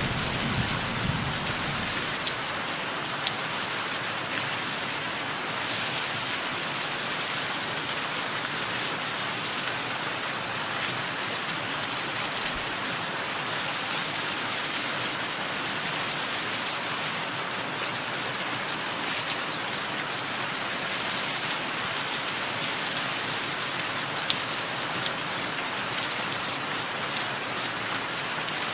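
Steady rain falling, with birds chirping over it in short high calls and a few quick trills every second or two. A thunder rumble dies away in the first second.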